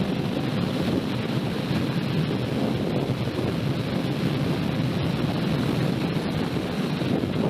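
Steady wind rush buffeting the microphone of a motorcycle at speed, with no distinct engine note.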